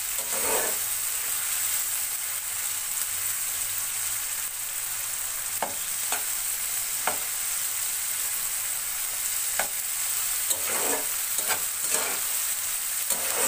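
Chopped onions and tomatoes frying in hot vegetable oil in a nonstick kadai, a steady sizzle. A spatula scrapes and knocks against the pan now and then as they are stirred, with a cluster of strokes near the end.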